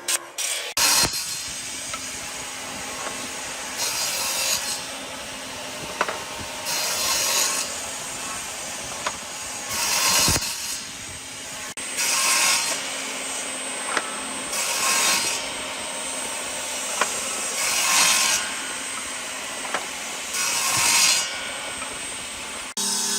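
Wood being worked with a hand tool: a rasping stroke across the timber about every three seconds, over a steady background of lower scraping noise.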